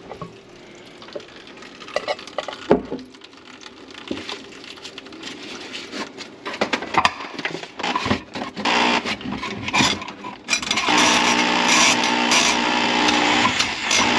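Scattered clicks and knocks, then about ten seconds in a small motor starts and runs steadily and louder.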